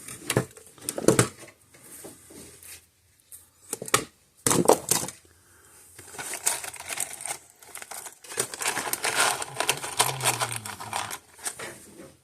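Repeated clicks, taps and scraping of hand work on a fence charger's wiring as the broken capacitor lead is repaired, in irregular bursts with a denser stretch of scraping and rustling in the second half.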